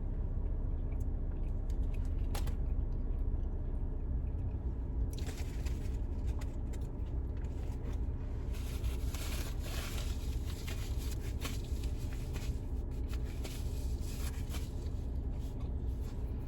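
Food being chewed and crunched, with crackly rustling of food packaging that starts about five seconds in and is busiest in the middle. Underneath is the low steady hum of a car's interior.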